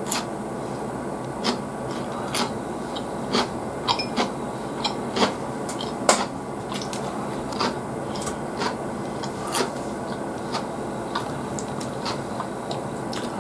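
A person chewing food close to the microphone: irregular wet mouth clicks and smacks, about one or two a second, over a steady hiss.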